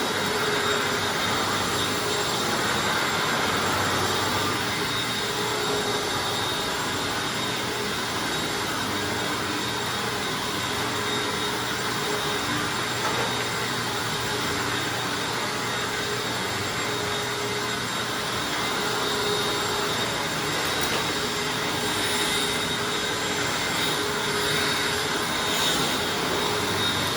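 Hoover Anniversary self-propelled upright vacuum cleaner running steadily, its motor noise carrying a steady high whine.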